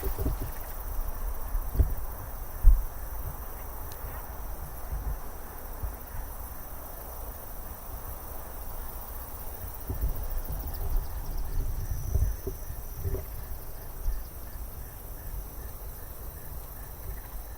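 Crickets chirping in a steady high chorus, with a faint regular pulse. Scattered low thuds come through on the microphones, the loudest about three seconds in.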